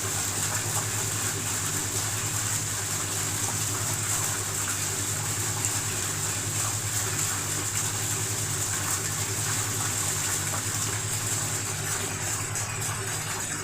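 Water pouring steadily down a decorative indoor waterfall feature, with a steady low hum beneath it.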